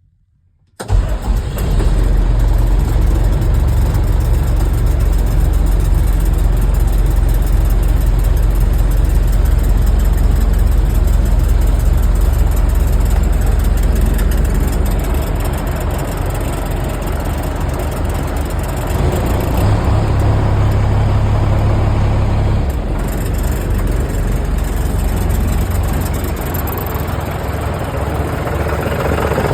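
1994 International 4900 dump truck's diesel engine running steadily at idle. The sound comes in suddenly about a second in, and a deeper hum swells for a few seconds past the midpoint, then eases.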